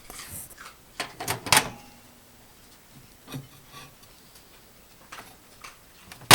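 Clicks and knocks of a microwave oven door and latch being handled, with a cluster of clicks about a second and a half in, a few lighter taps after it, and a sharp click near the end.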